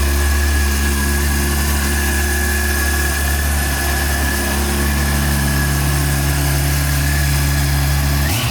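Yamaha FJR1300's inline-four engine idling steadily, with a thin steady whine above the engine note. Right at the end the note starts to change as a rev begins.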